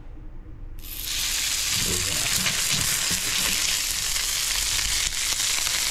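Yellowfin tuna steak sizzling in a smoking-hot pan of sesame oil. The sizzle starts suddenly about a second in as the steak goes down, then holds steady.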